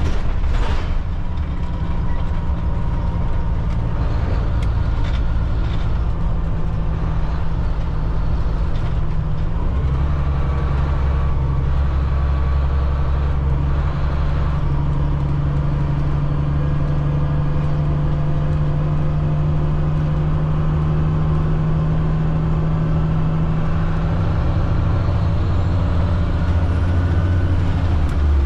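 Cat C7 diesel engine of a Blue Bird All American front-engine school bus running under way. Its low hum steps up in pitch and strength about ten seconds in.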